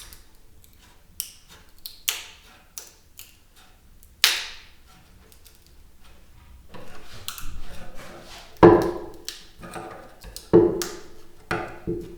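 Hand work at a bench: irregular taps, clicks and knocks of parts and tools being handled, with a stretch of scraping or rustling in the middle and several louder knocks near the end.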